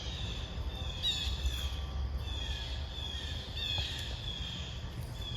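Birds calling: a run of short, high chirping notes repeated about every half second, with a couple of quick falling notes mixed in.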